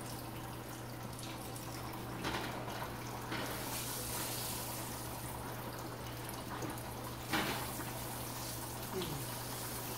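Fry bread frying in hot grease in a skillet, a steady sizzle, with a couple of sharp knocks about two and seven seconds in.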